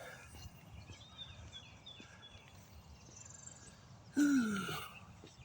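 Faint outdoor background with small birds chirping. About four seconds in, a man gives one short sigh that falls in pitch.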